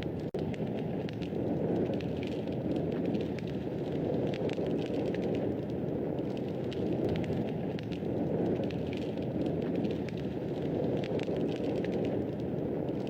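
Wood fire burning in a fireplace: a steady low rush of flames with frequent small, sharp crackles and pops. The sound drops out for a moment about a third of a second in.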